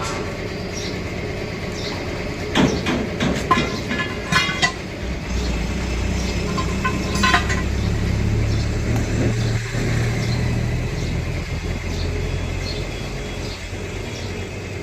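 A steady low engine rumble that swells from about five seconds in and eases off near the end. Several sharp metallic clinks and clanks ring briefly about two to five seconds in, with one more just after seven seconds.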